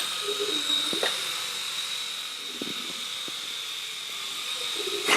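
Small electric motor and propeller of a toy remote-control airplane running with a steady high-pitched whine over a hiss, with a few faint clicks.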